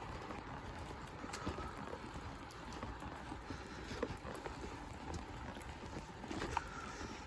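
Car driving on a road: a steady rumble of tyre and road noise, with scattered light knocks and clicks. The sharpest knocks come about four seconds in and again near the end.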